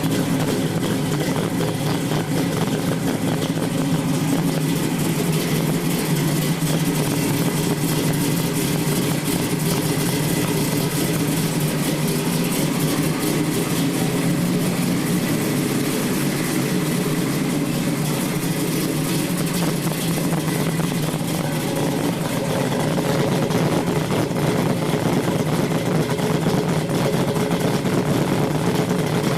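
Big-block Chevy V8 in a 1971 Chevrolet Nova SS running steadily on a cold start, getting a little louder in the last few seconds.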